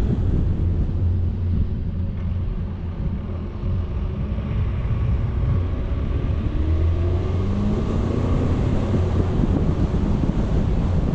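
A vehicle driving, with a loud low rumble of engine and wind buffeting the camera microphone; from about halfway through, a faint engine note rises as it speeds up.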